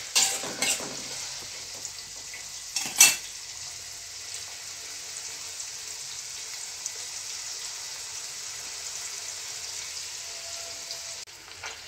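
Chopped onion, ginger, green chillies and garlic sizzling steadily as they fry in oil in a metal pan. A stirring spoon clinks against the pan a few times near the start and knocks loudly once about three seconds in.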